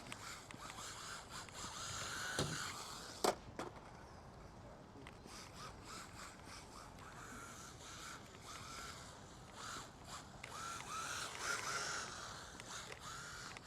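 Brushless motor of a 1:14-scale MJX rally RC car whining in short rising bursts as it accelerates again and again, with a sharp knock about three seconds in.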